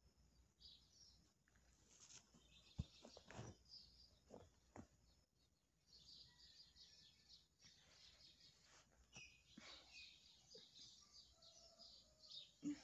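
Near silence, with faint birds chirping in the background and a couple of soft knocks, the loudest about three seconds in and near the end.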